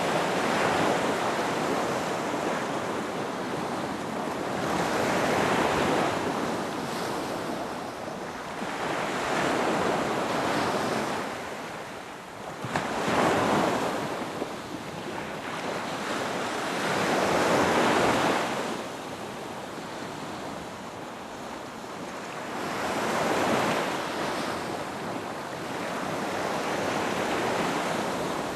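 Ocean waves breaking and washing up a beach, rising and falling in slow surges about every four to five seconds.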